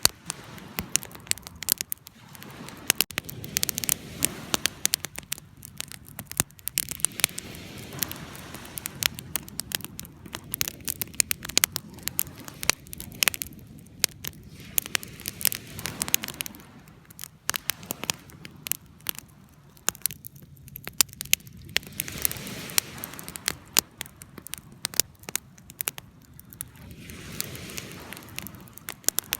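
Wood fire crackling: dense, irregular sharp pops and snaps over a soft low rush of burning that swells and fades.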